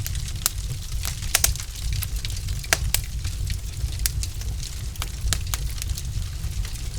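Log fire crackling: irregular sharp pops and snaps over a steady low rumble, with a few louder pops in the first three seconds.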